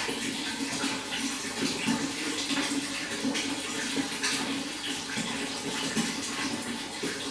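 Running water, a continuous flow with irregular splashes and gurgles.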